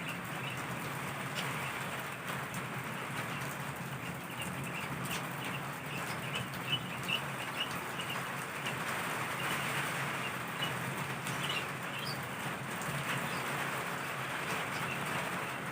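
Heavy downpour: a steady wash of rain noise, with short high-pitched blips scattered through it.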